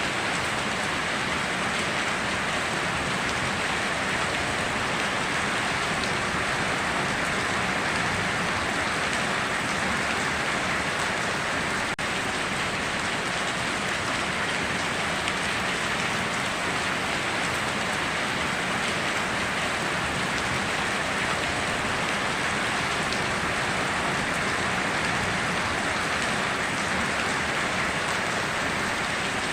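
Steady heavy rain falling on surfaces, an even hiss without breaks.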